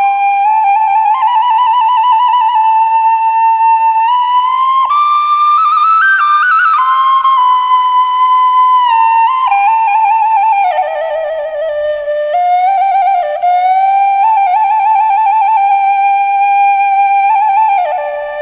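Background music: a solo flute playing a flowing melody of held notes ornamented with quick trills, pausing briefly near the end.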